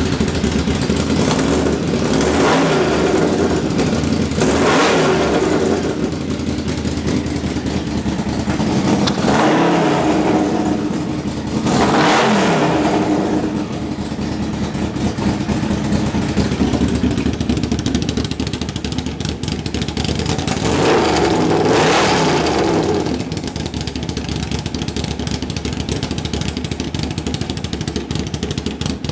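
1985 Yamaha V-Max V4 engine idling and being blipped about five times, each rev rising and falling back, then settling to a steady idle near the end.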